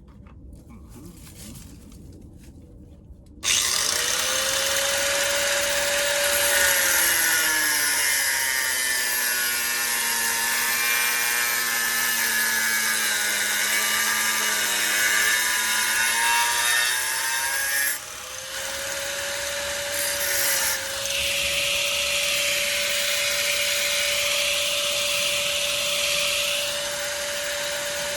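A grinder with a cut-off wheel starts up about three seconds in and cuts sheet-steel floor pan. Its whine sags in pitch as the wheel bogs into the metal, over a hissing grind. The whine climbs back to full speed when the load comes off about two-thirds of the way through, then runs steady.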